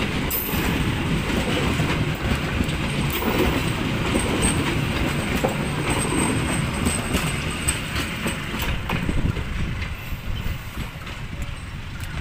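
Passenger train coaches rolling past close by, steel wheels clicking and clattering over the track with a steady rumble. The sound eases off after the last coach goes by and the train draws away.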